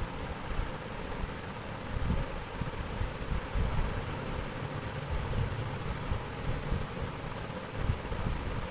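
Wind buffeting the microphone: an irregular low rumble with a steady hiss above it.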